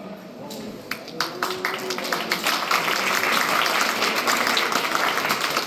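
Audience applauding, scattered claps about a second in building into full, dense applause.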